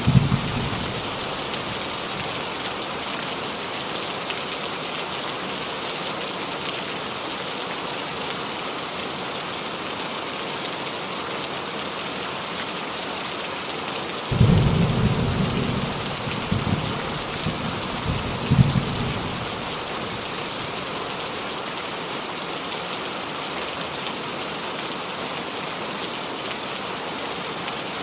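Steady rain falling on a roof, an even hiss throughout. Thunder rumbles briefly at the very start, then a longer roll of thunder comes in suddenly about halfway and lasts some five seconds, with a sharper peak near its end.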